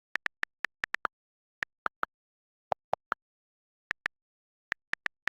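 A series of short, sharp clicks at an uneven pace, some in quick pairs, with dead silence between them.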